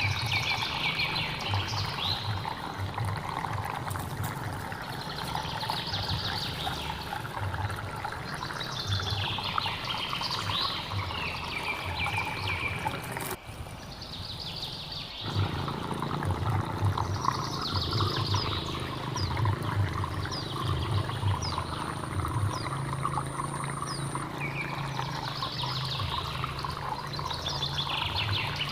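Flowing stream water running and trickling steadily, with a bird singing short repeated phrases every few seconds. The water sound drops out for a moment about halfway through, then comes back.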